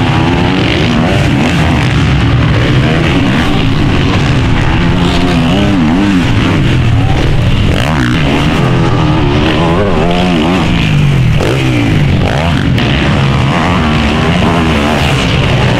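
Several motocross motorcycle engines racing, their pitch rising and falling over and over as the riders open and close the throttle.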